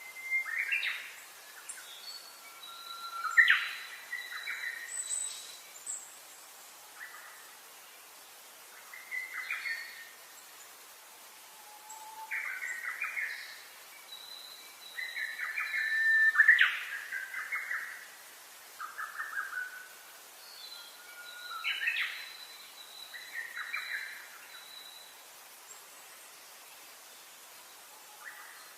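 Birdsong: short, varied song phrases every two to three seconds, some with a long, thin, steady whistled note, dying away near the end.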